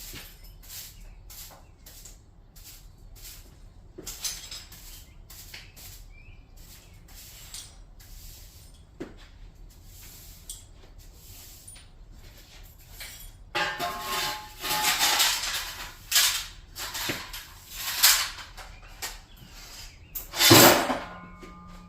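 Work noise from taking down a garage door: scattered light clicks and knocks, then from about two-thirds of the way in, a run of louder clattering and scraping bursts, the loudest near the end.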